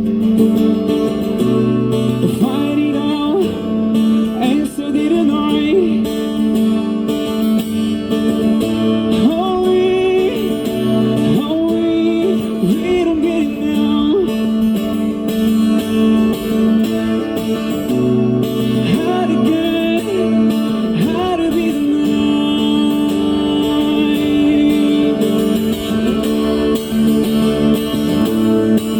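Live busking music with a steady guitar accompaniment and a melody line that slides between notes, with no lyrics. A long held note comes near the end.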